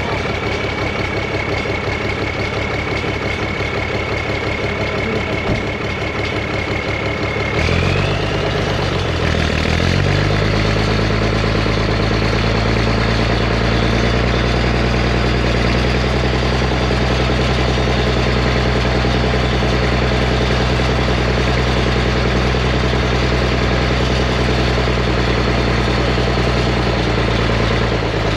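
Zetor Crystal 16145 tractor's diesel engine running steadily, with a thin high whine over it. About eight seconds in, the engine note changes and the whine rises briefly and drops away. From about ten seconds it settles into a new steady note.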